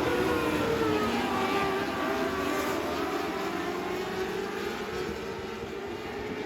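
Race car engines running hard, several pitches rising and falling as the cars go through their revs.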